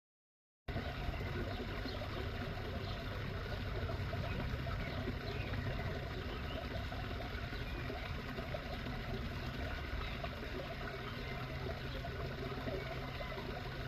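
Steady outdoor noise with a strong low rumble under a hiss, cutting in abruptly under a second in.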